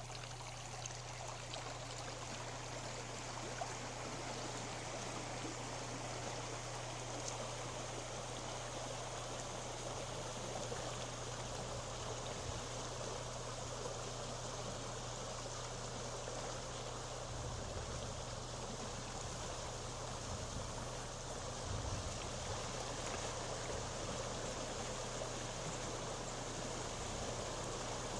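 Floodwater of a creek in flash flood rushing steadily past, with a steady low hum underneath.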